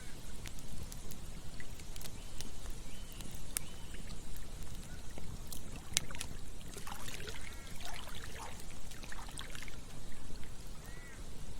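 Campfire crackling with scattered sharp pops over the steady rush of a flowing river. A few short chirping calls come through, bunched from a little past halfway to near the end.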